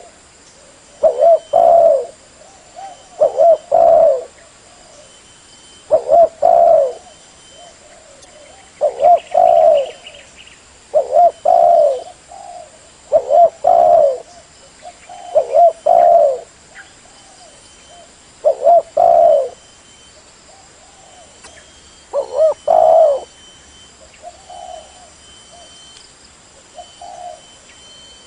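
Spotted dove cooing: a string of repeated low, multi-note coo phrases, one every two to three seconds.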